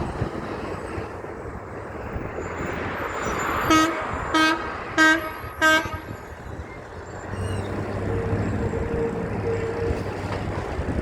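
A truck horn gives four short toots in quick succession over road traffic noise. A lower, steady engine drone follows in the later seconds.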